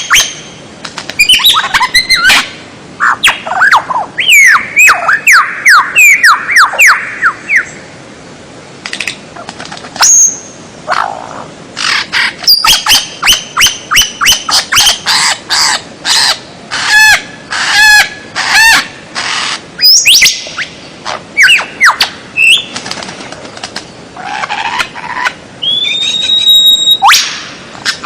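Loud, varied songbird song recorded for tutoring captive birds: quick runs of sharp chirps and downward-sweeping whistled notes. A long rising whistle comes near the end.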